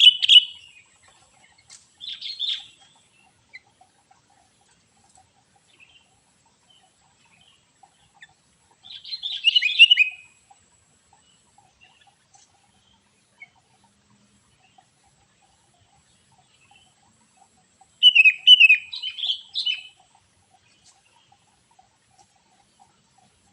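A songbird singing in short, loud bursts of rapid chirping and twittering: one at the start, a shorter one about two seconds in, one around nine to ten seconds in and a longer one from about eighteen to twenty seconds in, with quiet gaps between.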